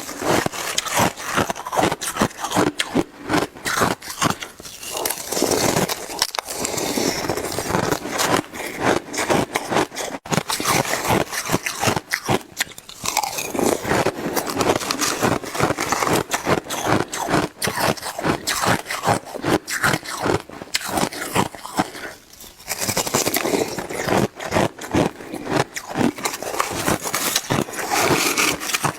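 Shaved ice being bitten and chewed fast, close to the microphone: a dense run of crackling, scraping crunches, with a brief lull about 22 seconds in.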